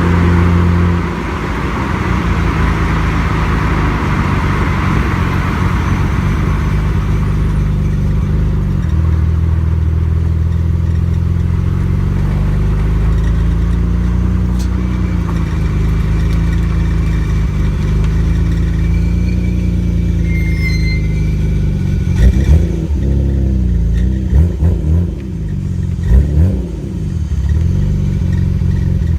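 Nissan Skyline GT-R R33's twin-turbo straight-six (RB26DETT) heard through its aftermarket exhaust while driving, the note rising and falling with throttle and gear changes. In the last several seconds the engine note swings up and down quickly a few times, with sharp loud peaks.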